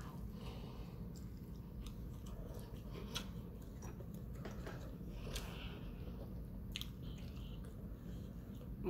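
Close-miked chewing of fried lake trout, with scattered short wet mouth clicks.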